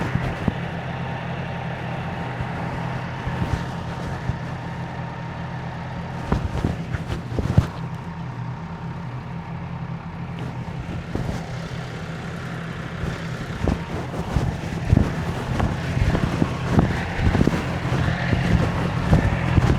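Honda CB650R's inline-four engine running at a steady low speed, with scattered short knocks; the engine grows louder near the end.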